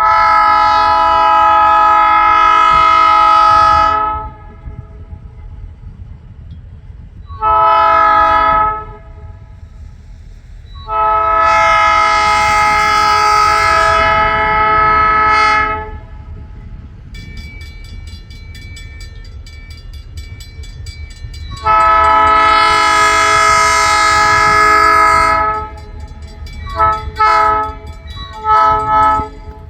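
A diesel locomotive's multi-chime air horn sounding a sequence of loud chord blasts: long, short, long, and after a pause another long, then several short toots near the end. From about halfway a locomotive bell rings steadily, over a low rumble of the passing train.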